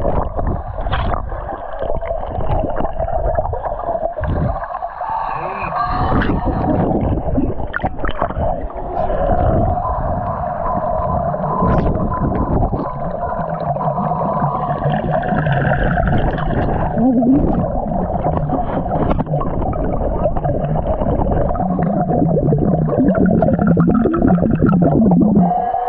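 Muffled underwater sound picked up by a camera held under water: a continuous rumble and gurgle with a steady tone running through it, and wavering lower tones near the end.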